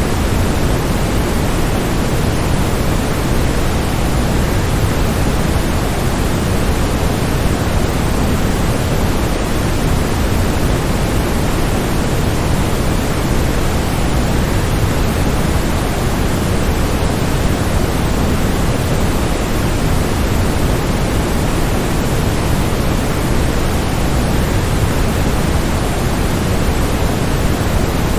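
A waterfall's steady rushing noise, even and unbroken, with most of its weight in the low end.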